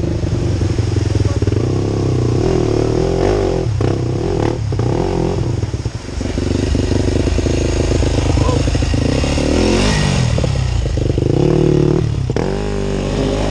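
Off-road motorcycle engine revving up and down under load, with a short drop about six seconds in and a rising rev near ten seconds.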